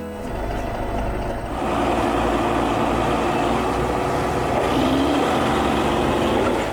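A truck engine sound effect running steadily, growing louder about a second and a half in.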